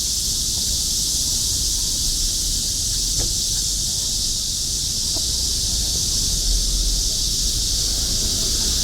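Cicadas singing in chorus: a steady, unbroken high-pitched shrill drone.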